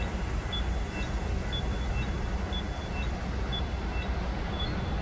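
Steady low road and engine rumble inside a moving car. Faint short high beeps at two alternating pitches repeat about twice a second above it.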